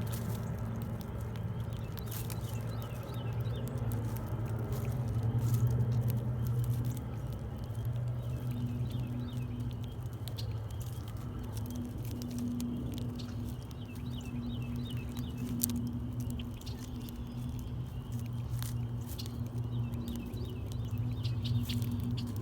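Scattered taps and clicks of small animals feeding at a bird feeder, with faint short high chirps, over a steady low hum.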